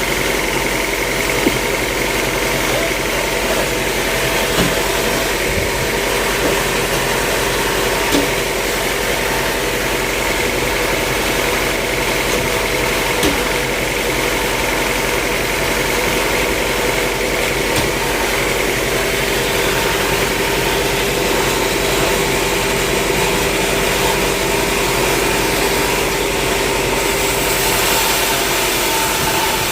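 Sawmill machinery running steadily: an engine-driven hum holding several constant tones, with a few light knocks now and then.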